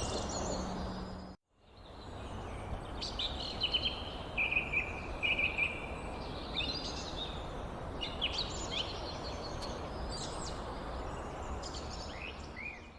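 Small birds chirping in quick, short, sliding notes over a steady background hiss. The sound breaks off completely for a moment a little over a second in, then resumes.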